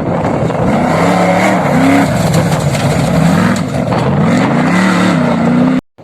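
Off-road vehicle engine running under load, its pitch rising and falling over and over as the throttle is worked, with wind and rumble on the microphone. It cuts off suddenly near the end.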